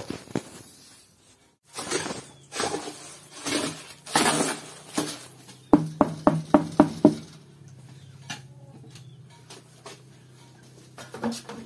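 Handling and work noises: scraping and rustling, then a quick run of about seven sharp clinking knocks around the middle, over a steady low hum that sets in about halfway through.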